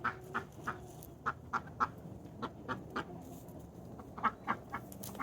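Ducks quacking in short, scattered calls, several a second at times, the loudest about four seconds in.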